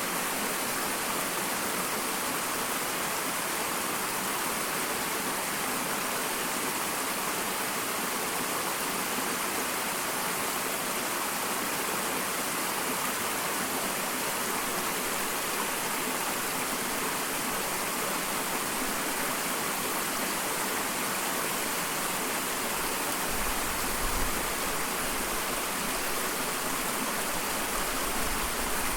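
Small waterfall splashing in a steady, even rush of water. A low rumble joins in about two-thirds of the way through.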